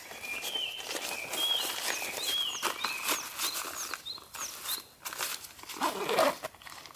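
Small birds chirping in a quick run of short repeated notes, over a scatter of sharp clicks and crackles. A lower, wavering call comes near the end.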